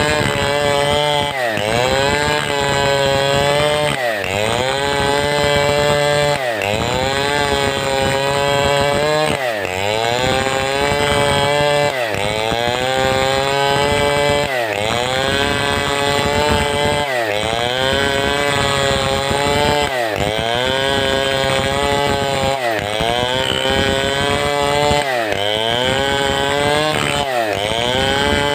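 Large two-stroke chainsaw of the Stihl 070 type running at high revs while cutting timber. Its pitch dips sharply and comes straight back up about every two and a half seconds.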